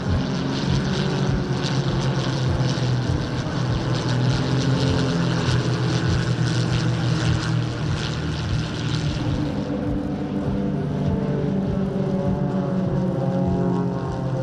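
Light single-engine piston propeller aircraft flying an aerobatic display, with a steady engine-and-propeller drone. The pitch shifts and slides in the second half as the aircraft changes speed and distance.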